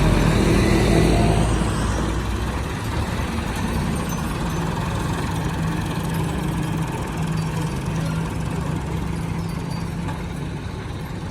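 A vehicle engine running steadily at idle, a little louder for the first couple of seconds and then settling.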